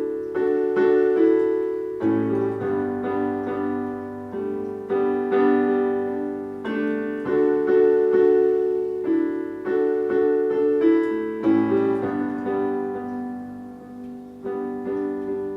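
Solo piano playing an instrumental passage of repeated chords, each chord struck and left to ring, with a low bass note joining in at times.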